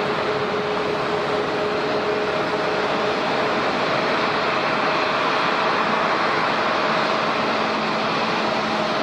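Jet airliner engines running steadily, a broad even rush with faint steady whining tones underneath whose pitch shifts about two to three seconds in.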